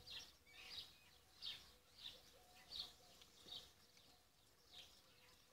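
Faint bird chirping: a short, high call repeated about seven times at uneven intervals of half a second to a second, over a faint steady hum.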